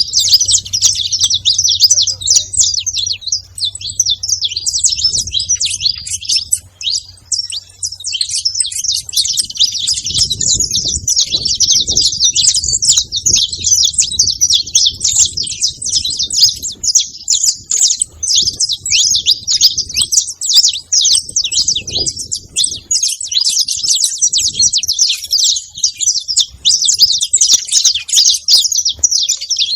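Saffron finch singing: a long, nearly unbroken run of rapid high chirps and trills, thinning briefly about seven seconds in.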